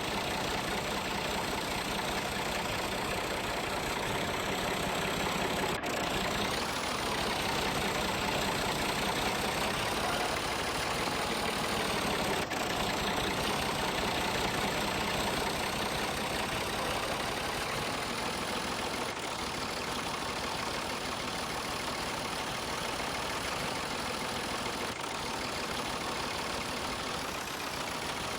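An engine or motor running steadily, with no change in speed.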